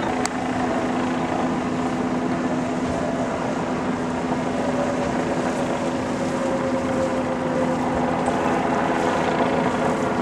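An engine running steadily: a continuous droning hum whose pitch sags slightly in the middle.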